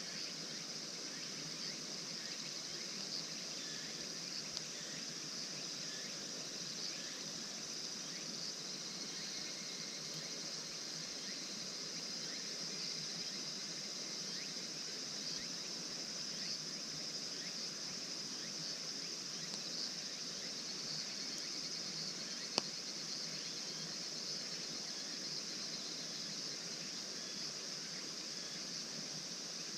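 Steady chirring of crickets and other insects in a night-time chorus, with small scattered ticks and one sharp click a little over twenty seconds in.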